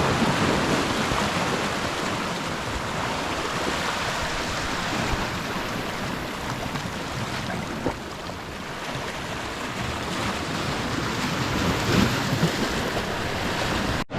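Sea waves washing steadily onto the shore, a continuous rushing with a couple of small knocks.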